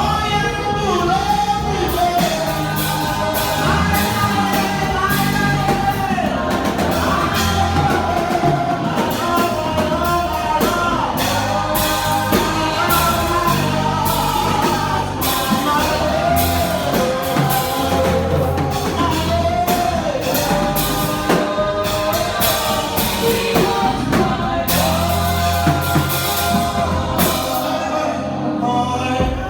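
Live gospel music: a singer's voice with backing vocals over a band with bass and drum kit.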